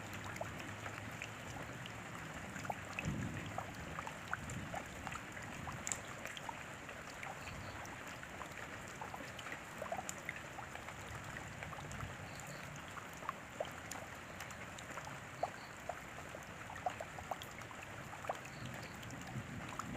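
Steady rain with many separate drops ticking and splashing close by at irregular moments.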